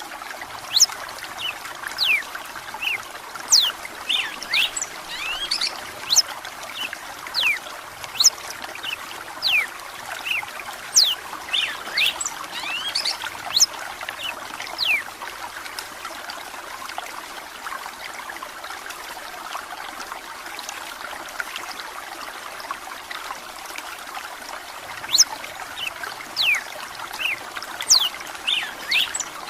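Red-cowled cardinal singing over steadily trickling running water: quick, sharply falling whistled notes in bursts through the first half and again near the end, with a lull in between.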